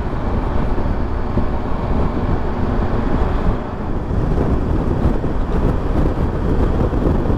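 Wind buffeting the rider's microphone while riding a Triumph Tiger 1200 GT Explorer at speed, with the bike's engine and road noise underneath; a steady, gusting rush heaviest in the low end.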